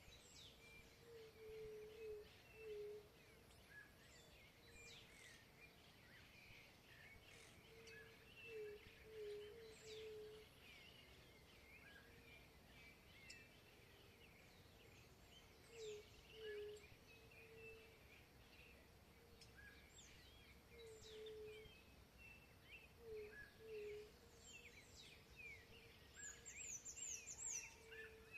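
Faint chorus of several birds singing: many short chirps and whistles, a low phrase of short hooting notes repeating every few seconds, and a quick run of high notes near the end.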